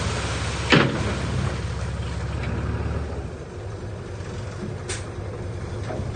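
Heavy diesel engine of earthmoving machinery running steadily, easing off about three seconds in. A single sharp knock comes just before a second in.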